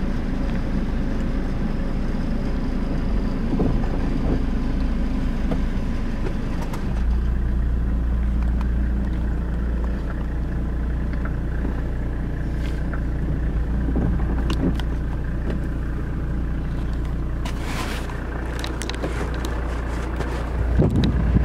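Car engine running steadily, heard from inside the car as it reverses slowly; its low hum grows stronger about seven seconds in. A few sharp clicks near the end.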